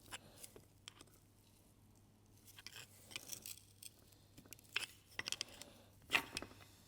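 Faint, scattered clicks and short scrapes of small metal parts being handled as a V10 oil pump is stripped down, in irregular clusters with the loudest click about six seconds in.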